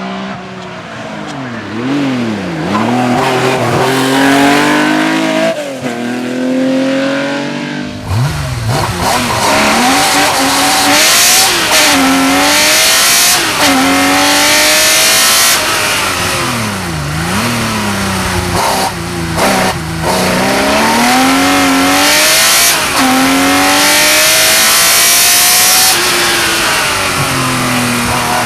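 Porsche 911 Carrera RSR's flat-six racing engine under hard acceleration, its note climbing in pitch through each gear and dropping at every shift. Several times it falls sharply and climbs again as the car slows and picks back up. About eight seconds in, a louder, rougher noise joins the engine note.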